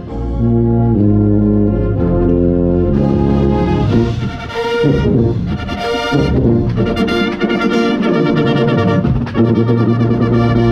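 A drum corps brass line playing a loud passage of held chords that change about every second, with the tuba carrying strong low notes close to the microphone.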